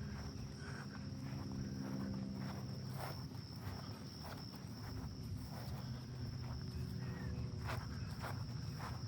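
Footsteps of people walking, with a steady high-pitched drone of insects behind them.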